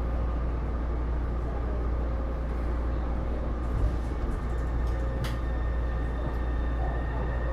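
Inside a Taipei Metro Series C301 metro car running at steady speed: a steady rumble of wheels on track with a faint, even whine, and one sharp click about five seconds in.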